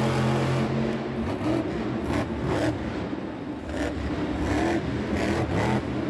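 Monster truck engine running, held steady for about the first second, then revving in repeated surges.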